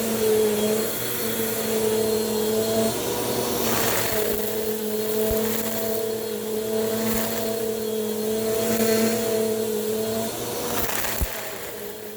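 Bissell Powerforce Compact upright vacuum running with a steady motor whine that wavers slightly in pitch, with a few brief swishing surges a second or two apart.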